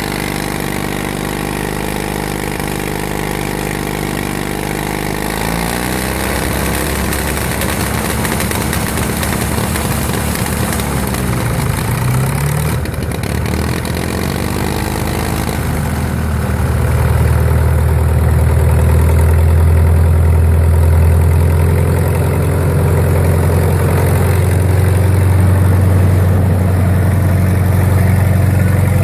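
Caterpillar D311 diesel generator engine running. About six seconds in its pitch starts to waver up and down, and about halfway through it settles into a louder, steady, deep run.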